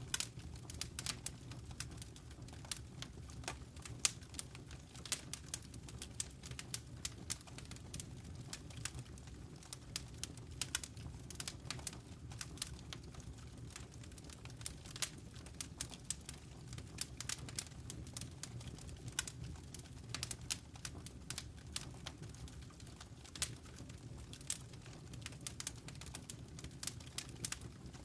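Fireplace fire crackling: irregular sharp snaps and pops, several a second, over a low steady rumble of the burning flames.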